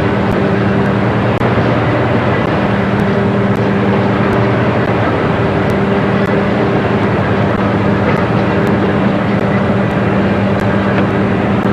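A boat's engine running steadily: a loud, even hum under a constant rush of noise.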